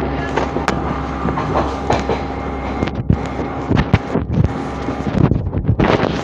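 Passenger train running along the track, heard from aboard: a steady rumble and rush of air, broken by many sharp, irregular clacks from the wheels.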